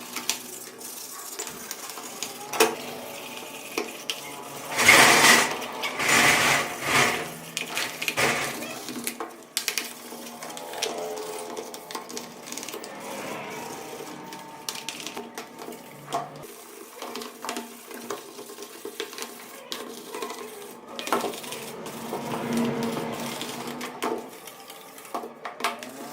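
Workshop handling of metal motorcycle parts and tools: irregular clinks, taps and knocks. There is a louder clatter about five to eight seconds in.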